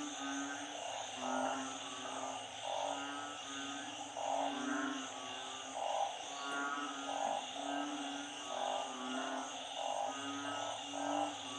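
A chorus of frogs, narrow-mouthed frogs (อึ่ง) and small frogs (เขียด), calling together in floodwater after a storm. Short croaks repeat and overlap continuously over a steady high ringing drone.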